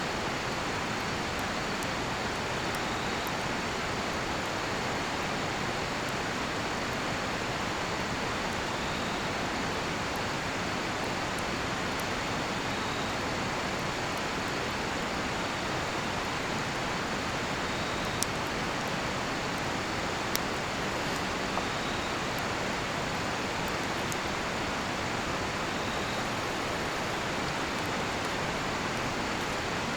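Steady rushing of a nearby river, with a faint high insect trill behind it and a few sharp crackles from a cedar-wood campfire, two of them a little louder about two-thirds of the way through.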